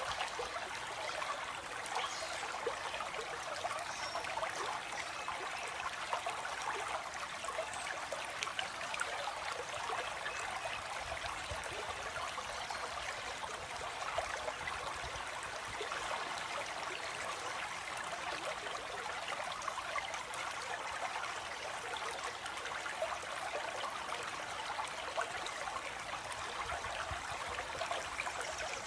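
Water flowing in a stream, a steady trickling rush that does not change.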